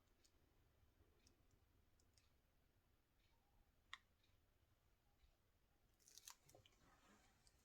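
Near silence in a small room, broken by a few faint short clicks and taps: a sharper one about four seconds in and a small cluster around six seconds.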